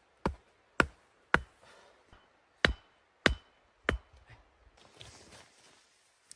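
Wood being chopped: six sharp strikes in two groups of three, about half a second apart, with a short pause between the groups.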